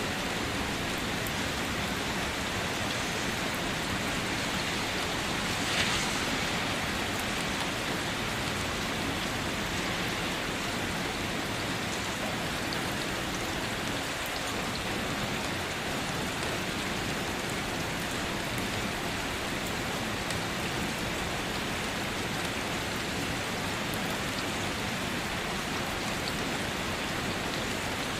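Steady rainfall, an even hiss of drops pattering on leaves and surfaces, with one slightly louder splash about six seconds in.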